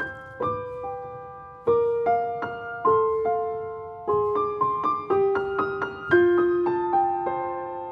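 Background music: a gentle piano melody of single notes, each struck and left to fade.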